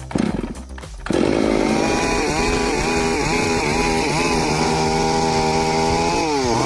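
A few knocks, then from about a second in a chainsaw running at high revs. The engine note wavers slightly, drops and climbs again near the end as the throttle eases off and opens up.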